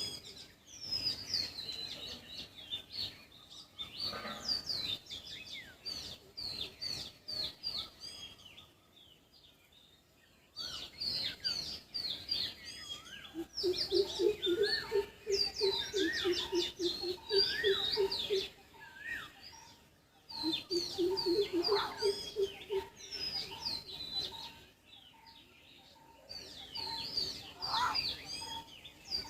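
Wild birds calling, with many quick, high, down-slurred chirps from more than one bird. Twice in the second half, a lower, rapid string of notes joins in. There is a short lull about a third of the way in.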